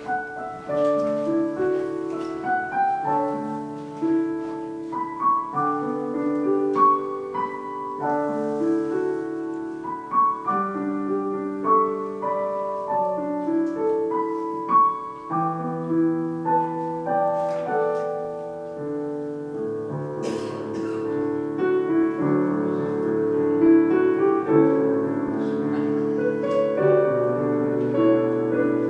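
Piano playing a slow, flowing offertory piece, with chords and melody notes throughout and a fuller texture about two-thirds of the way through.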